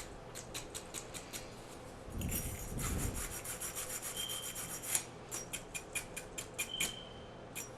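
Wire brush and scraper working the solder cups of a Moen Posi-Temp tub and shower valve, in short rasping strokes a few times a second with a longer scrub about two seconds in, cleaning the metal before soldering.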